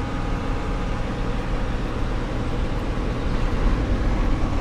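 Steady low rumble of a car, heard from inside the cabin, with a faint hum above it.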